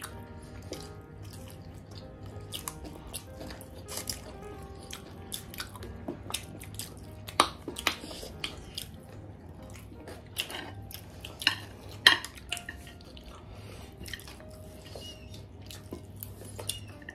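Close-miked eating sounds: irregular wet mouth clicks and smacks of people chewing chowmein noodles and fried chicken, the sharpest around the middle. Soft background music plays underneath.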